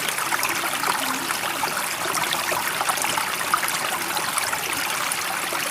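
Water flowing steadily, an even wash of trickling and splashing at a constant level.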